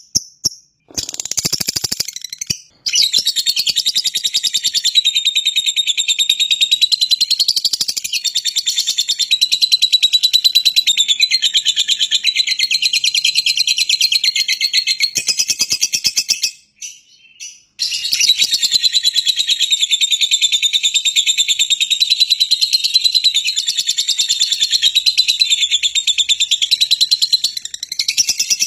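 Lovebird (Agapornis) chattering in long, unbroken, rapid high-pitched trills. The bird breaks off briefly about two-thirds of the way through, then resumes.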